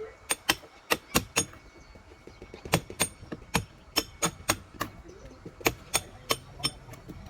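Hammer blows, sharp and irregular, in clusters of two to four at about two or three a second, each with a short metallic ring.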